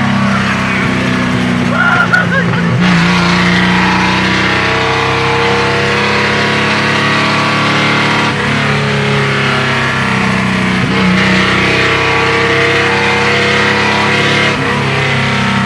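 Chevrolet 400's engine running loud through an open, unmuffled exhaust, its note drifting slowly up and down with a few short breaks, about three and eight seconds in and again near the end.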